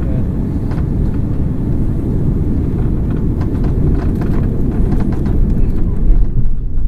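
Airbus A330 cabin noise on landing: a steady low rumble of engines and airflow with scattered rattles, growing heavier and louder near the end.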